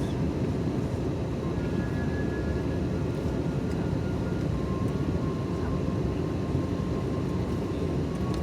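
Airbus A321neo in flight heard from inside the passenger cabin: a steady, even roar of engine and airflow noise, with a faint high whine.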